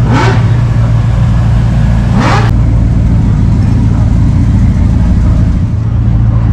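Car engine running loud and steady at idle, blipped twice with quick revs: once at the start and again about two seconds in.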